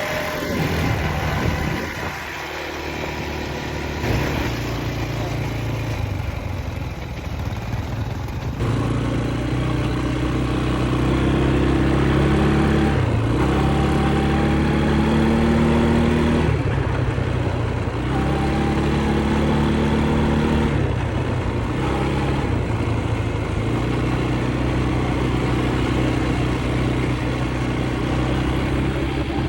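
Quad bike engines running near idle, a steady engine note that shifts in pitch every few seconds.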